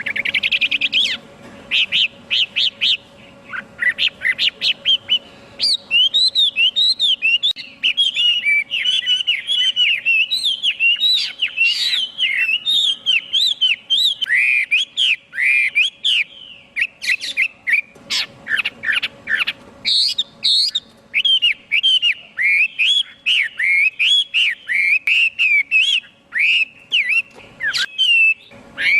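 Chinese hwamei singing: a fast, varied stream of loud whistled phrases full of quick slides up and down in pitch. The notes are scattered at first and become almost unbroken from about six seconds in.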